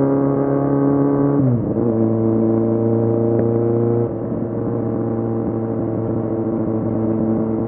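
Kawasaki Z750's inline-four engine running under way with a steady note. About a second and a half in the revs drop sharply, then hold. Around four seconds in it gets quieter while the revs stay steady.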